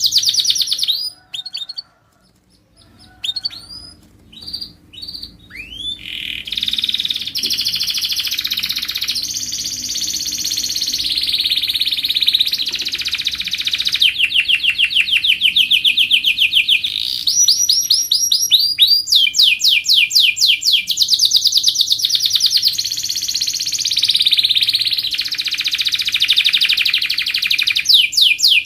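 Canary singing: after a short pause and a few separate notes near the start, it runs into a long series of fast trills, each a quick repeat of one note, switching to a new trill every few seconds. A faint steady hum lies underneath.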